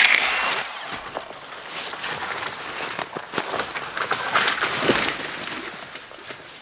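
Irregular crunching footsteps with scattered crackles and snaps, loudest right at the start.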